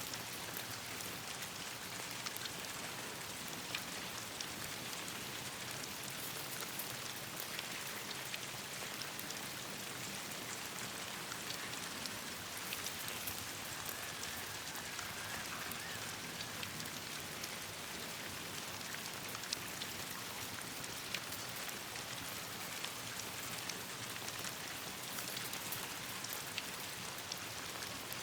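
Steady rain falling on leaves and the ground, an even hiss sprinkled with many short sharp ticks of individual drops.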